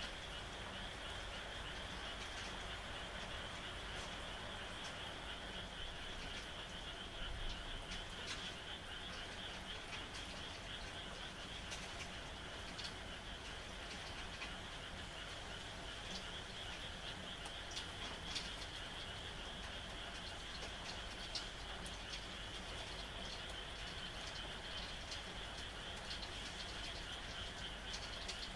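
A steady, high-pitched chorus of frogs calling over the even hiss of falling rain.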